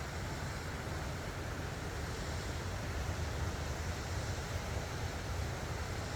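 Creek water running steadily, with a low rumble of wind buffeting the phone's built-in microphone.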